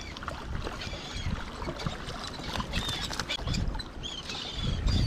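Water sloshing and splashing around a boat, with many small scattered splashes and taps over a low rumble.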